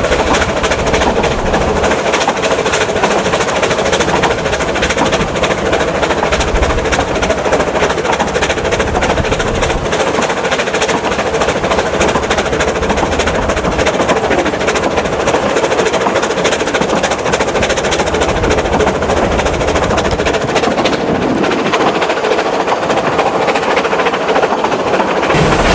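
Narrow-gauge steam locomotive Vale of Rheidol No. 8, a 2-6-2 tank engine, on the move: loud, steady running with a rapid string of beats and rail noise, changing abruptly near the end.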